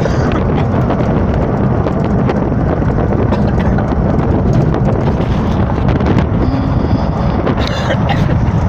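Strong wind rushing over the microphone in the open bed of a moving pickup truck: a steady, loud buffeting rush.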